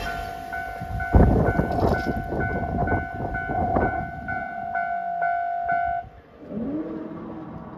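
A train passing, wheels clicking and knocking over the rail joints, with a steady high tone pulsing about three times a second that cuts off about six seconds in. A lower tone rises and holds near the end.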